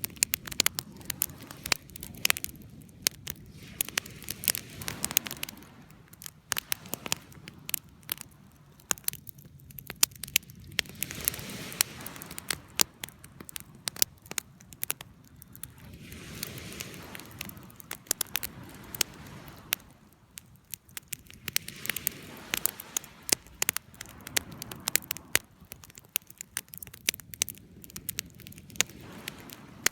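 Wood campfire crackling, with frequent irregular sharp pops and snaps over a soft hiss of flames that swells and fades every few seconds.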